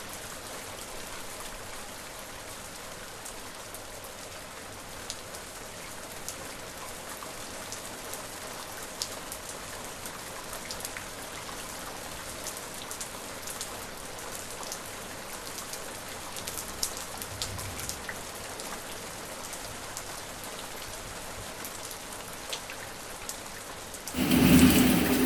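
Steady rain falling, with scattered drops ticking sharply. About a second before the end it cuts abruptly to a much louder, different noise with a steady low hum.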